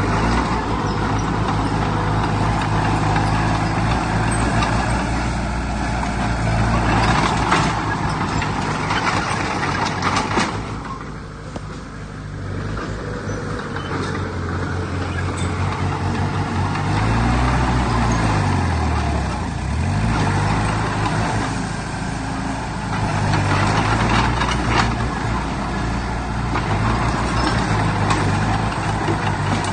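Heavy diesel engines of earthmoving machinery running under load, with the engine pitch dropping and then climbing back up about two-thirds of the way through.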